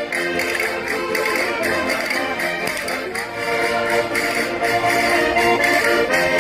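Concertinas playing a Minho folk dance tune in held reedy chords, over a steady beat of sharp taps.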